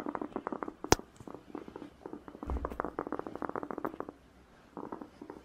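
Pet rabbit purring: rapid, very quiet clicking and grating from lightly grinding its teeth, in bursts, a sign that the rabbit is calm and relaxed. A single sharp click about a second in.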